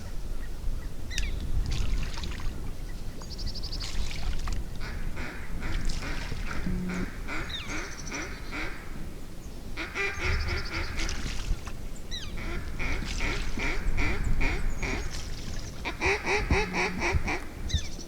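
Duck calling: repeated runs of rapid quacking notes in groups of a second or two, with a few short rising squeals mixed in.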